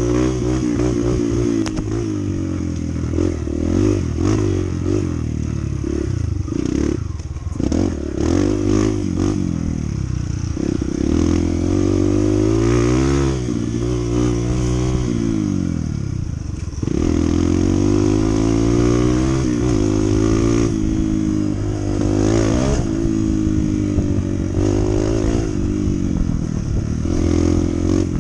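Honda CT125's single-cylinder four-stroke engine running while riding, its pitch rising and falling again and again with throttle and gear changes. Several short knocks come between about six and ten seconds in.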